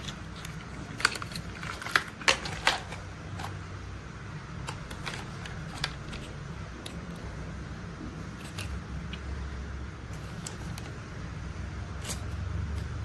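Toy construction vehicles being handled: scattered sharp clicks and taps, several in quick succession in the first few seconds and more later, over a low steady rumble.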